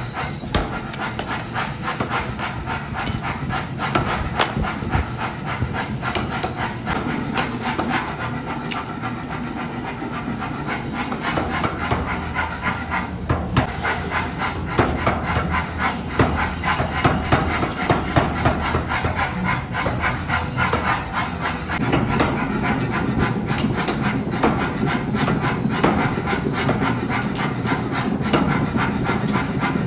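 Metalworking in a workshop: a dense, irregular run of knocks and clicks over continuous scraping, like metal being hammered and rubbed. A lower rumble joins about two-thirds of the way through.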